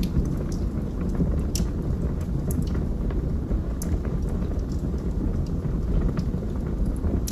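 Wood fire burning in a fireplace: a steady low rumble of the flames with scattered sharp crackles and pops from the burning wood, about six in a few seconds.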